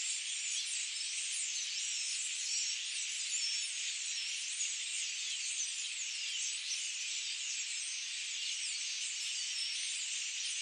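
Dense, continuous chorus of many small birds chirping and twittering over one another, high-pitched and steady.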